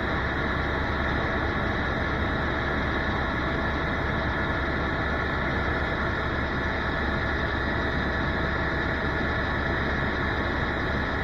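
Helicopter engine and rotor running steadily in flight, heard from inside the cabin as an unchanging loud drone.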